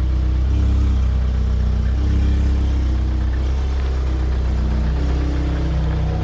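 Audi S3 tuned to Stage 3, idling steadily through an RS3 exhaust with a deep, even drone.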